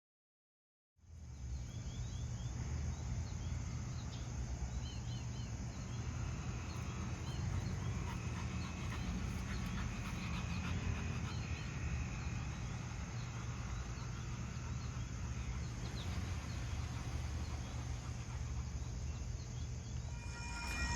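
Dead silence for about a second, then steady outdoor background noise: a low rumble with small birds chirping now and then, most often in the first several seconds.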